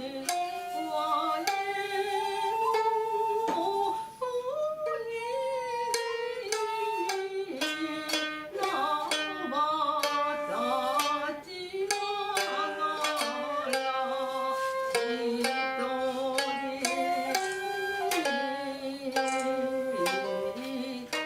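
Traditional Japanese ensemble music: sharp plucked string notes, in the manner of a koto, under held, wavering wind-like notes, in the manner of a shakuhachi, in a steady flowing melody.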